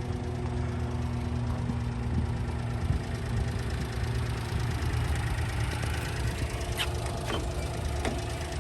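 An engine idling steadily with a low, even hum. Three light clicks come near the end.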